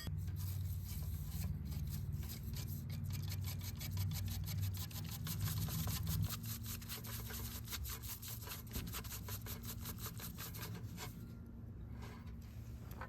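Rapid, repeated rubbing or scraping strokes that go on for about eleven seconds, then thin out and stop.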